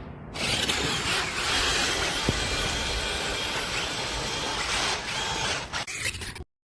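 Remote-control Grave Digger monster truck running: a steady noisy rush from its motor and wheels, with a faint whine, stopping abruptly about six seconds in.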